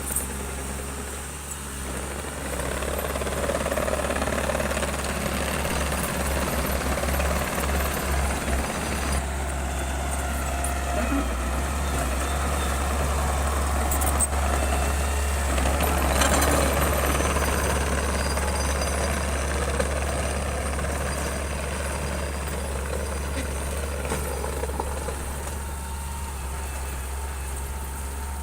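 Diesel engine of a heavy earthmoving machine running and working with a steady low drone and mechanical clatter. The level swells about two and a half seconds in and again around the middle.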